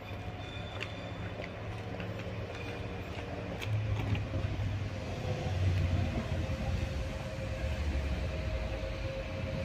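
A train at a railway station: a steady low rumble with a held hum, swelling louder about four seconds in, with a few sharp metallic clicks in the first two seconds.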